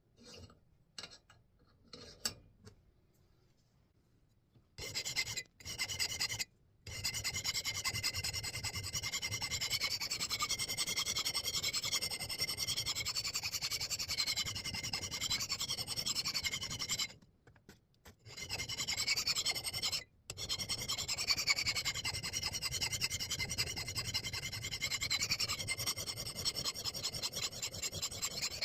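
A metal file scraping along the edge of a steel axe head as it is sharpened. A few light clicks come first, then steady filing starts about five seconds in, with a few short breaks, and a metallic ringing runs through the strokes.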